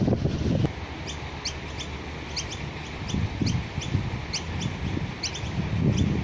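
Birds chirping: short, high chirps repeating about two or three times a second. Wind buffets the microphone with a low rumble for the first moment, which then drops away.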